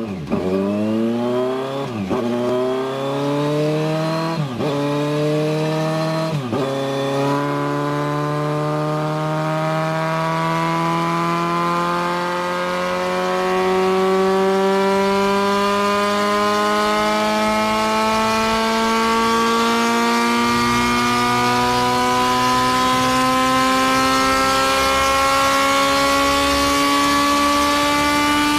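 Kawasaki Z900's inline-four engine through an aftermarket SC-Project exhaust, accelerating hard through the gears. Its pitch climbs and drops at each of several quick upshifts in the first seven seconds, then climbs slowly and steadily in one gear.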